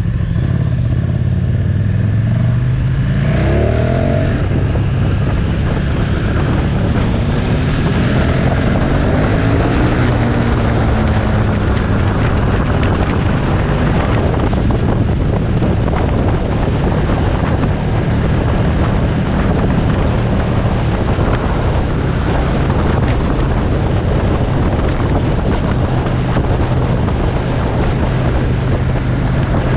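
Motorcycle engine running at riding speed with wind rushing over the microphone. The engine note shifts up and down a few times in the first dozen seconds, then holds steady.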